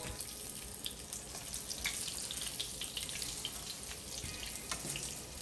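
Breaded pork cube steaks sizzling in shallow hot oil, half olive and half vegetable, in a skillet. It is a steady hiss with scattered crackles and pops.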